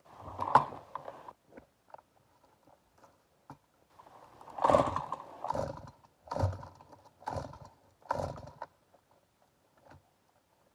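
Stihl MS 290 two-stroke chainsaw being pull-started: several separate yanks of the starter cord, each a short rasping burst with a pause between, without the engine catching. The owner says the saw will not start after it has been run a while.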